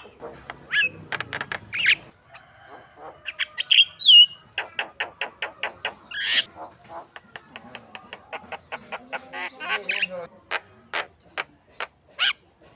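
Javan myna singing a varied, chattering song: runs of rapid clicking notes, several a second, broken by squeaky whistled glides and harsh calls.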